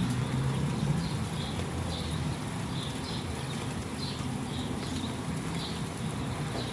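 Soft rain falling as a steady hiss, with a steady low hum underneath and short high chirps repeating about once or twice a second, like a small bird calling.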